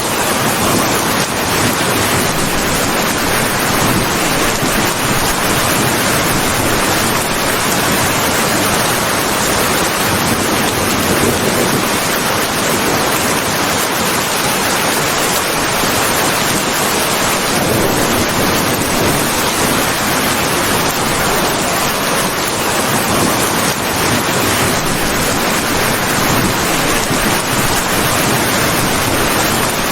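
Steady, heavy rain, an even hiss with no let-up and no thunder.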